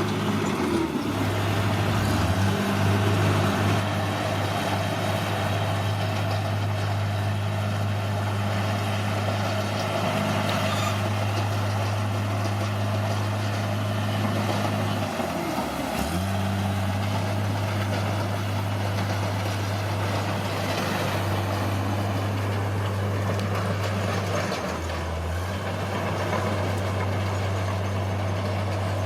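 Bulldozer's diesel engine running steadily, its pitch dipping briefly a few times as the load or throttle changes.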